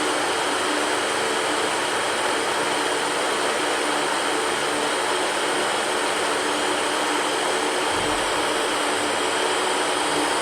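Electric fan running steadily: a constant rush of air with a faint, even motor hum underneath.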